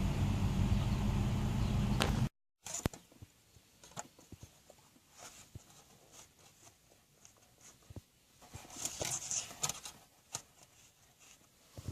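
Steady car cabin noise for about two seconds, cut off abruptly, then a quiet stretch of scattered small clicks and rustles, busier about three quarters of the way through.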